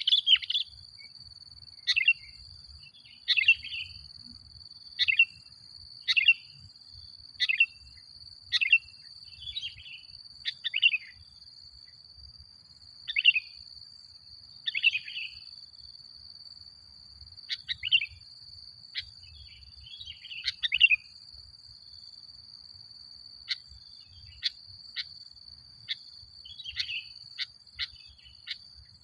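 Sooty-headed bulbul (kutilang) calling in short, sharp chirps, one every second or two at uneven intervals, with a couple of longer pauses. A steady, thin, high tone runs underneath throughout.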